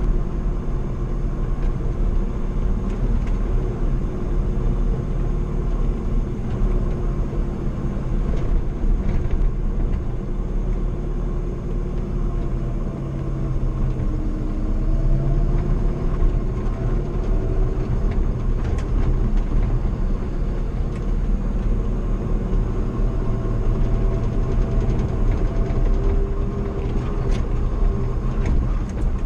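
Old pickup truck driving on a dirt road: steady engine hum and road rumble, with the engine note dropping about halfway through and then climbing again. A few light rattles and knocks come through now and then.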